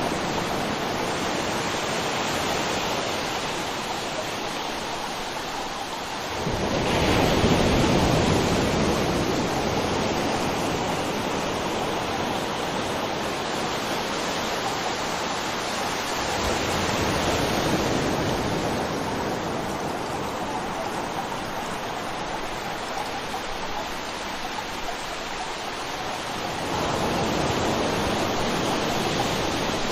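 River water flowing, a continuous rushing that swells louder about a quarter of the way in, again just past the middle, and near the end.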